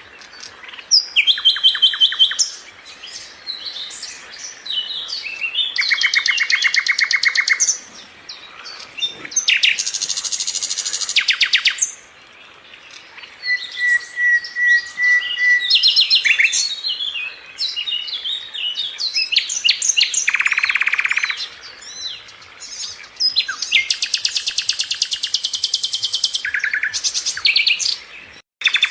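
A sikatan londo flycatcher singing a long, varied song of fast buzzy trills and chirps, phrase after phrase, with one steady whistled note about halfway through.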